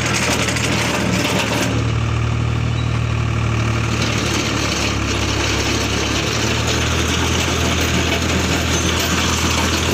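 Tractor diesel engine running steadily while it drives a post hole digger attachment, with the upper part of the sound thinning about two seconds in and filling back in after about four seconds.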